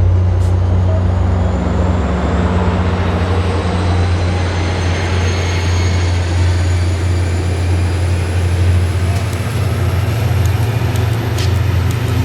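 Train running close by: a steady low engine drone under broad running noise, with a high whine that slowly rises in pitch.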